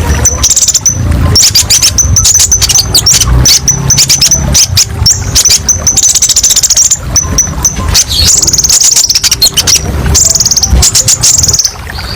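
Brown-throated sunbird (konin, 'kolibri ninja') singing almost without pause: rapid high-pitched chips and fast, buzzy trills with short breaks, over a low rumble.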